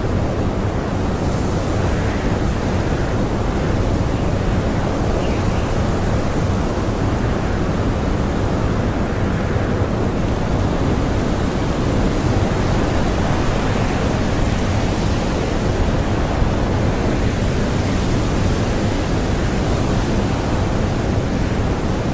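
Blizzard wind blowing steadily: a dense, rushing noise, heaviest in the low end, that holds even throughout with no gusts or breaks.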